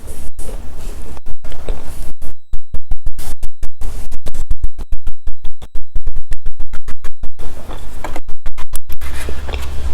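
Loud crackling and low hum from a badly plugged-in microphone. Through the middle the signal cuts in and out many times a second, and any chewing is buried under the fault noise.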